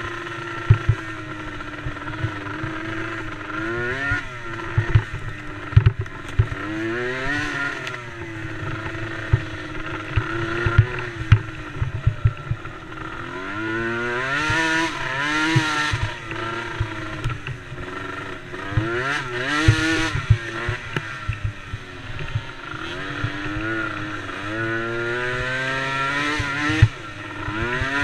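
Small engines of youth racing ATVs revving up and falling back again and again, as through corners and straights, with more than one engine heard at times. Frequent sharp short clicks and knocks sound throughout.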